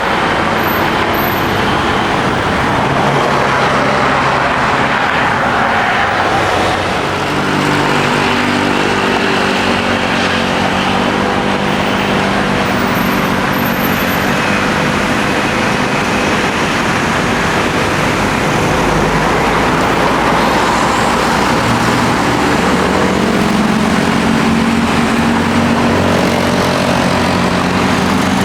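Jet airliner engines running at a steady loud rush, with low drone tones that shift in pitch now and then.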